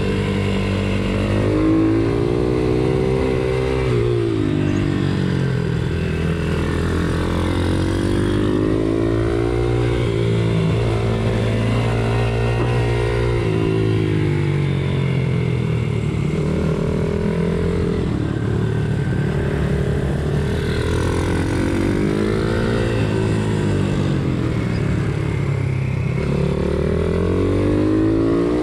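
Pit bike engine racing on track, revs climbing and dropping again every few seconds as it accelerates and backs off through the corners.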